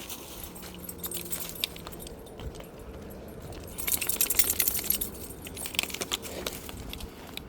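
Footsteps crunching and rustling through dry leaves and brush, irregular crackling with a louder, denser stretch about four seconds in.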